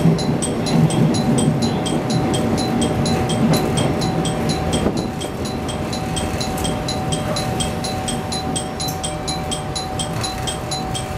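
JR West 105 series electric train running out of a station, heard from the cab: a low rumble of motors and wheels that eases after about five seconds. A fast, even high-pitched clicking, about four a second, runs over it.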